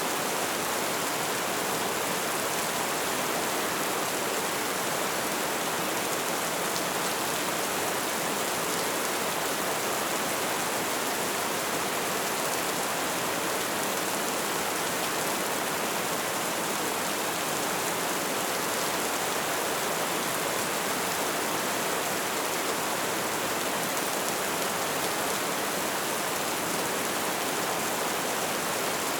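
Light rain falling steadily, a constant even hiss without distinct drops or changes.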